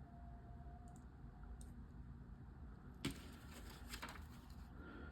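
Plastic LEGO pieces clicking as they are handled and pressed together, faint, with a short cluster of clicks about three seconds in.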